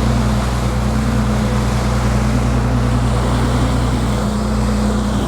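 Fishing boat's engine running steadily with an even low drone, with wind and sea noise over it.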